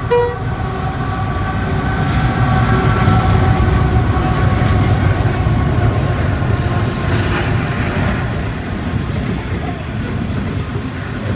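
Diesel-hauled coal train passing close by: the locomotives go by, then a long rake of coal hopper wagons rumbles and clatters over the rails. The rumble swells over the first few seconds and then holds steady.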